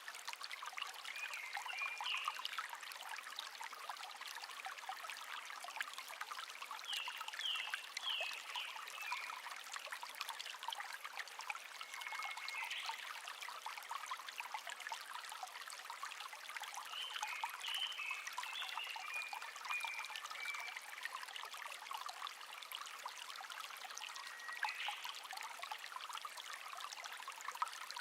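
Shallow stream babbling and trickling steadily, with a songbird singing short chirping phrases every few seconds, about five times.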